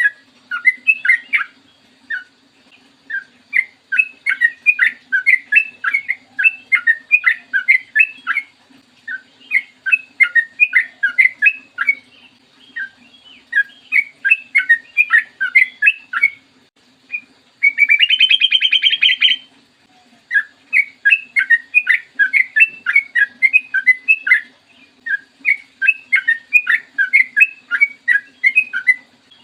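Sooty-headed bulbul singing long runs of short, quick whistled notes in rapid bursts, with a buzzy, rattling call of about two seconds a little past the middle. A faint steady hum sits underneath.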